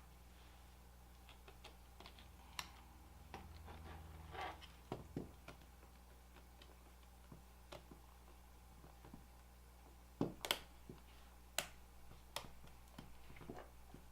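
Scattered small clicks and taps of smartphone parts being handled and pressed back into the phone's frame by hand, with a brief rustle about four seconds in and the loudest few clicks a little after ten seconds.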